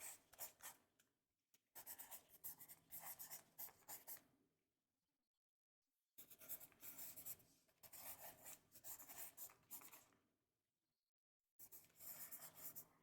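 Faint writing on paper: quick scratchy strokes in four spells, broken by pauses of about one to two seconds.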